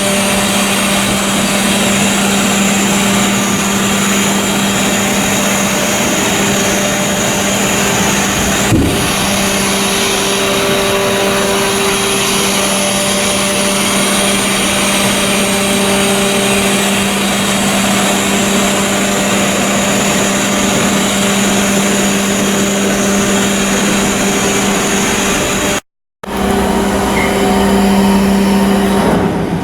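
Steady running of heavy machinery: a constant drone with a low hum, broken by one sharp click about nine seconds in and a brief total cut-out near the end.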